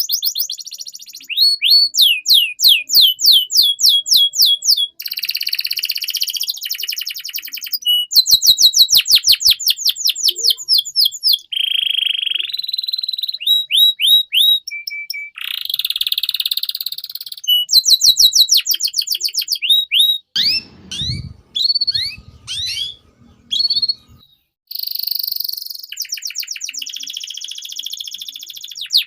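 Domestic canary singing a long, varied song: phrase after phrase of fast trills of repeated falling notes, buzzy rolls and short clear whistles, each phrase changing to the next after a second or two. A few lower, rougher notes come a little past the middle.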